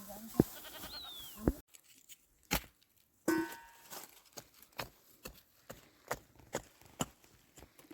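A series of sharp knocks and taps at irregular intervals, several a second in places, with a short lull about two seconds in.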